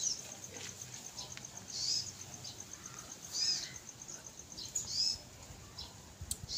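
A bird repeats the same short, high, arched call four times, about every second and a half, over a steady high-pitched trill.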